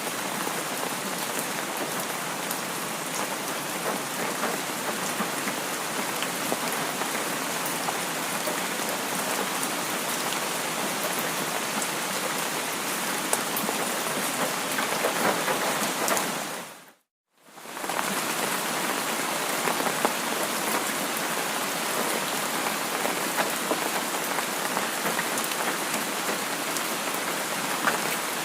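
Steady rain, a continuous hiss with scattered sharp ticks of single drops. Partway through, the rain fades out to silence for about a second, then fades back in.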